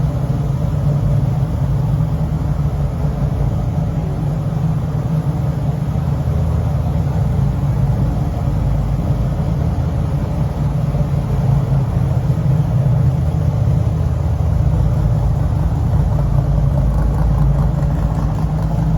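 Big-block V8 engine, a 572 GM crate motor in a 1973 Camaro, running steadily with a deep, even rumble and no clear revving.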